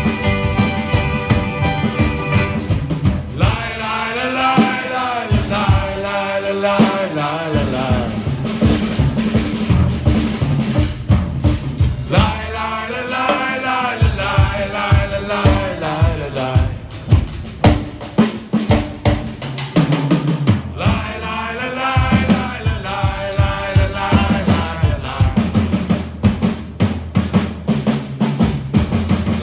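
Live band playing an instrumental break over a steady drum beat, a lead melody line coming and going in phrases.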